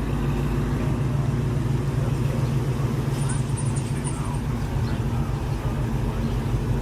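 Car engine running steadily at idle, a low, even rumble.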